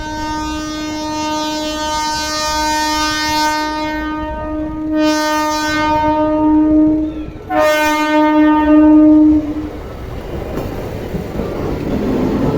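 Electric multiple unit train's horn sounding a long blast, breaking briefly about seven and a half seconds in for a shorter second blast that stops near the ten-second mark. After it, the rumble and clatter of the train running through.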